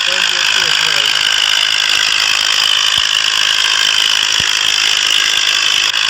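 Ford tractor and its working machinery running steadily under load, a loud continuous mechanical clatter.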